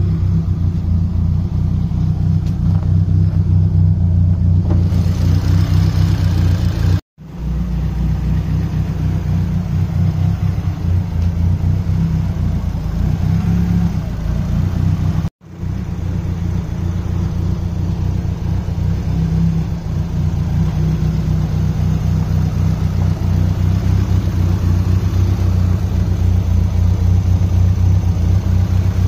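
Nissan SR20DET turbocharged four-cylinder engine running steadily at idle. The sound cuts out suddenly for a moment twice, about 7 and 15 seconds in.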